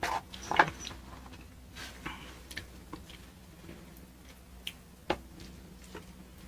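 Close-up eating sounds: biting into and chewing a fish taco, with a few crunches in the first second, then scattered small clicks and mouth noises, one sharper click about five seconds in.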